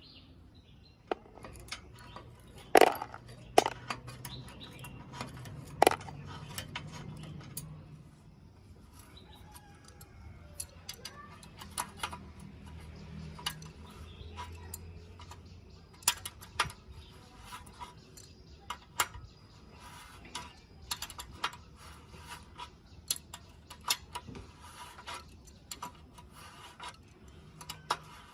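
Metal bicycle parts and hand tools clinking and tapping on and off, with a few louder metallic knocks in the first six seconds.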